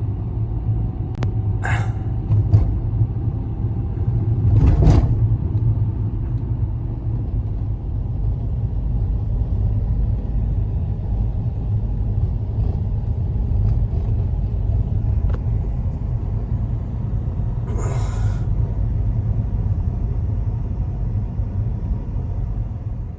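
Steady low rumble of storm wind buffeting the microphone, with a few brief knocks or scrapes about two, five and eighteen seconds in.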